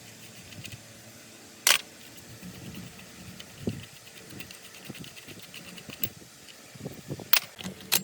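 Workshop handling sounds from restoring a car washer: scattered low knocks and clinks of metal parts and tools, with a sharp metallic clank about two seconds in and two more near the end.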